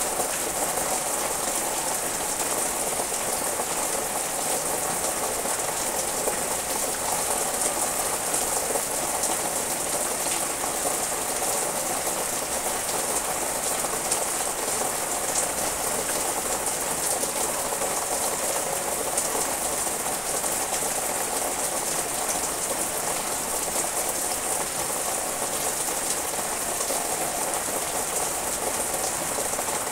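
Steady rain falling on dense foliage, an even hiss that holds at the same strength throughout.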